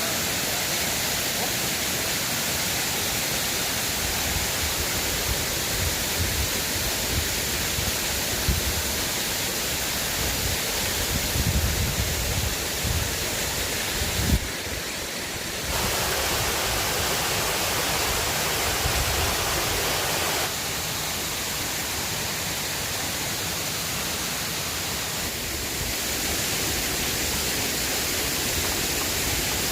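River water rushing in a steady, even wash. Its tone changes abruptly a few times, and there are some low rumbles in the middle.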